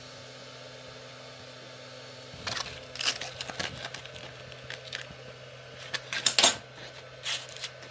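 Irregular light metallic clinks and rattles, as of small metal parts or tools being handled, starting about two and a half seconds in and loudest near the end, over a steady low hum.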